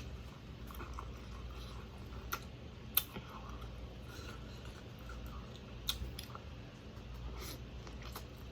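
A person chewing food close to the microphone. A few sharp clicks or snaps come through, the loudest about three seconds in, over a low steady hum.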